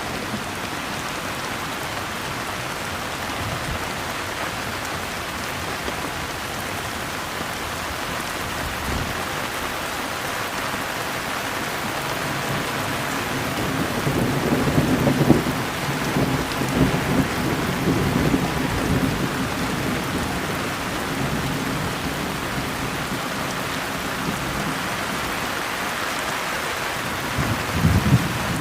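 Steady rain. Thunder rumbles in from about halfway through for several seconds, and again near the end.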